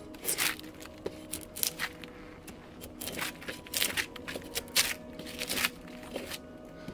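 Irregular crunching and crackling of hand work, a dozen or so short strokes with uneven gaps, over faint steady background music.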